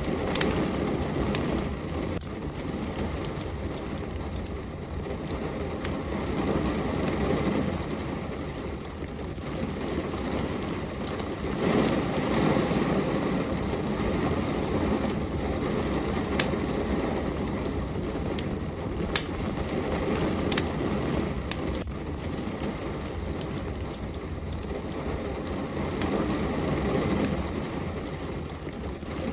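Steady rain hissing, swelling louder and easing off a few times, with sharp, scattered crackles from a fireplace fire.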